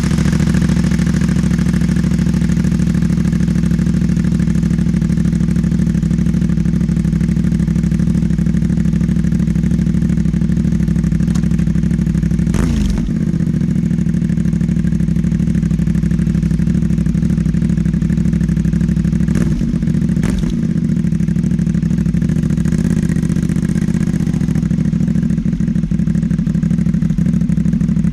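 CFMoto 450MT motorcycle's parallel-twin engine idling steadily through a modified aftermarket exhaust, with a brief blip of the throttle about 13 seconds in and another couple around 20 seconds.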